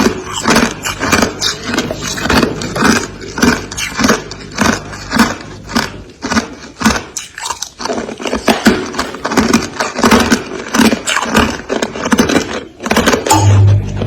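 Freezer frost crunching in quick, repeated crunches, about two a second, with crisp crackling over each one. A steady low hum starts near the end.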